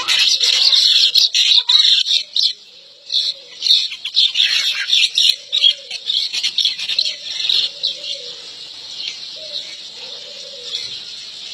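Birds chirping and calling: a dense, loud run of quick high chirps for the first few seconds that then thins out, with a lower call repeated about once a second through most of it.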